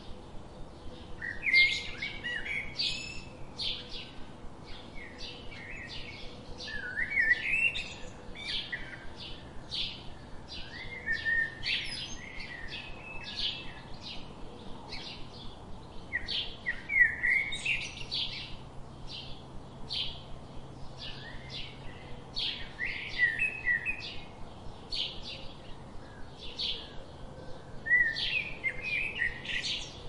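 Songbirds calling: a steady run of sharp, high chirps about twice a second, with a lower warbling phrase breaking in every few seconds.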